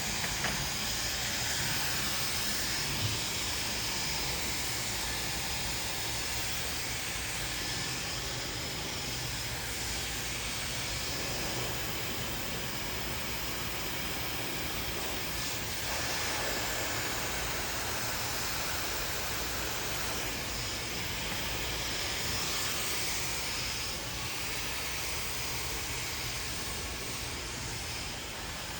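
Handheld hair dryer blowing steadily, a continuous rush of air whose loudness swells and dips slightly as it is moved around the hair.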